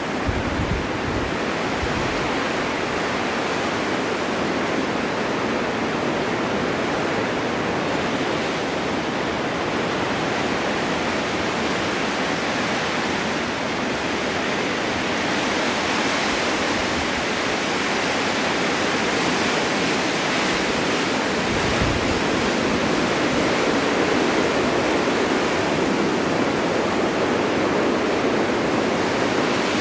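Snowstorm wind blowing steadily, a dense rushing noise that swells and eases slowly. There are a few brief low buffets about a second in and again near the twenty-two-second mark.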